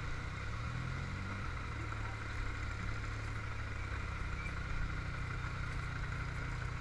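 Motorcycle engine running steadily while riding, its pitch rising briefly about a second in as it speeds up, with a steady rush of wind and road noise.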